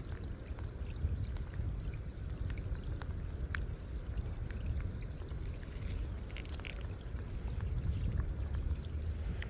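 Steady outdoor noise of light rain with a low rumble, and a few faint scattered ticks.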